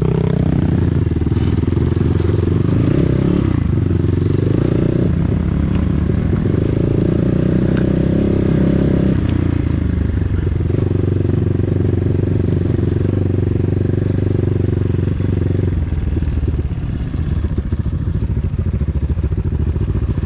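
Enduro motorcycle engine running under way, its pitch stepping up and down several times with changes of throttle.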